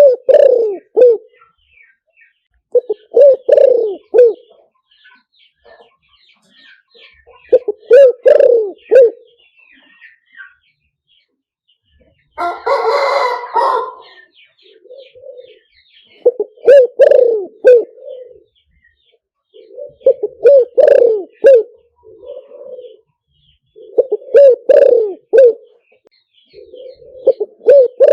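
Spotted dove cooing: short, throaty multi-note phrases repeated every three to four seconds, the kind of call recording played through a speaker to lure wild doves. About halfway through, one harsher, noisier call of about a second and a half breaks in, and faint high chirps of small birds sound between the phrases.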